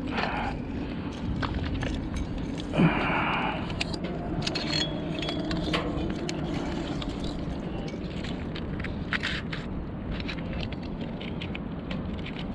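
Scattered clicks and scraping from handling at close range, with one louder rustling burst about three seconds in, over a steady low background hum.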